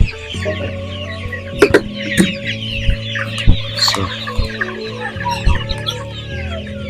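A flock of young chickens, about 20 days old, cheeping and clucking together without a break, with a few sharp knocks.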